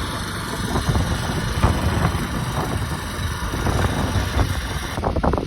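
Engine of a Grillo walk-behind tractor running steadily, with irregular short knocks and clatter over it.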